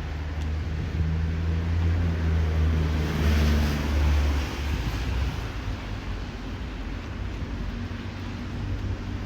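A motor vehicle passing close by on the street: a low engine hum, with road noise swelling about three and a half seconds in, then fading away after about four and a half seconds.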